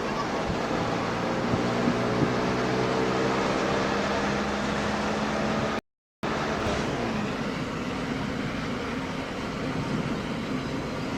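Car engine and road noise heard from inside the cabin as the car accelerates after a gear change, the engine note rising for a few seconds. The sound drops out completely for a moment about six seconds in, then steady engine and road noise carries on.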